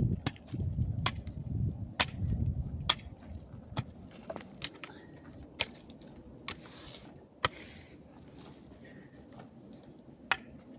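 A hand tool striking rock in sharp, regular blows about once a second, stopping after about seven seconds, with one last strike near the end. There is a low rumble under the first few blows.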